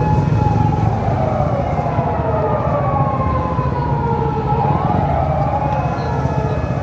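Vehicle traffic with a low rumble throughout and several tones gliding slowly down in pitch, one rising about two thirds of the way in.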